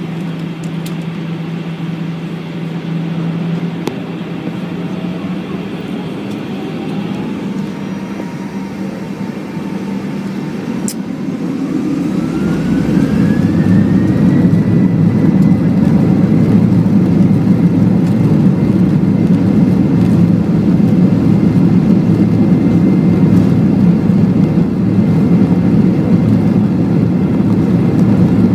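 Boeing 737-8's CFM LEAP-1B jet engines spooling up to takeoff thrust, heard inside the cabin. A whine rises in pitch over several seconds and then holds steady, while a loud rumble builds about halfway through and continues as the takeoff roll gets under way.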